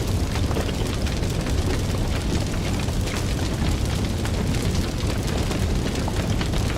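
Fire burning with a steady low rumble and frequent small crackles and pops throughout.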